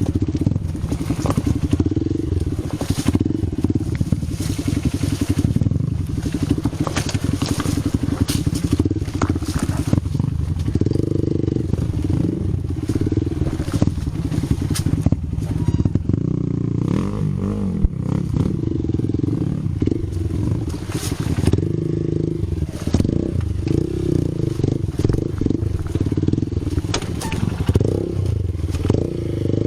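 Vehicle engine running with its pitch rising and falling, as if being throttled on and off, with frequent knocks and rattles throughout.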